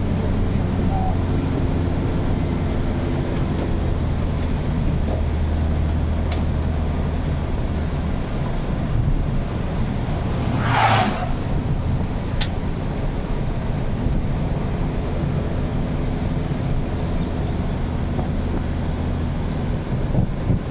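Old Suzuki Katana's small four-cylinder engine running steadily on the road, with tyre and road noise. The engine hum drops a little about eight seconds in, and a brief rushing sound swells and fades about halfway through.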